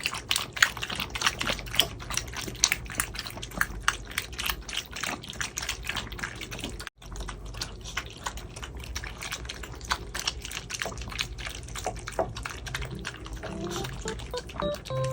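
Dogs eating wet homemade food from their bowls: rapid, wet chewing, licking and lip-smacking clicks. The sound cuts out for an instant about seven seconds in, and a few soft keyboard notes come in near the end.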